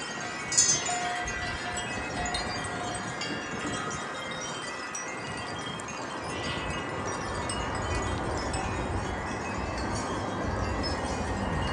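Wind chimes ringing in a gust, many tubes struck and sustaining overlapping tones, with the strikes thickest about half a second in. Wind rumble on the microphone builds through the second half.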